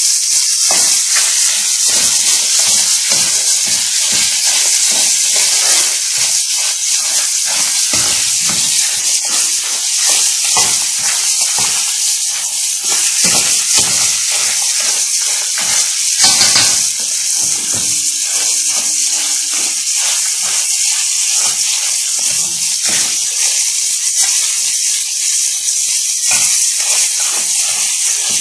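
Crayfish frying in hot oil in a metal pan: a steady loud sizzle with frequent crackling pops, and a brief louder burst about two-thirds of the way in.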